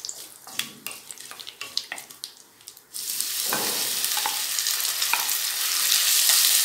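Mustard seeds and curry leaves crackling in hot oil in a non-stick kadhai, with scattered pops and a wooden spatula scraping. About three seconds in, grated raw potato goes into the hot oil and a much louder, steady sizzle starts as it is stirred.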